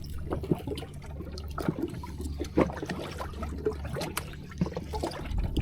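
Sea water lapping and splashing against a boat's hull in short irregular splashes, over a steady low hum.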